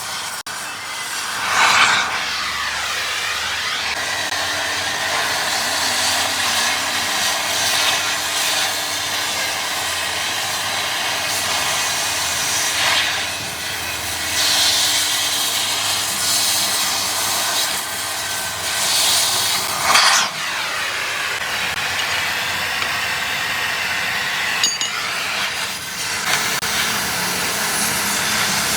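Continuous scraping, rasping noise of a tool working on gearbox parts, swelling louder several times.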